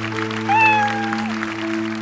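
Gentle background music with long held notes, over which a cat gives one short meow about half a second in.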